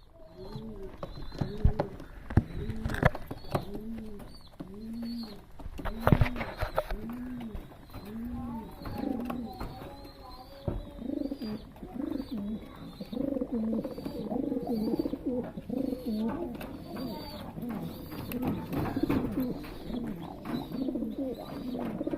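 Domestic pigeons cooing: a steady series of low, arched coos, a bit over one a second, that grows denser and overlapping about halfway through. A few sharp knocks come early on.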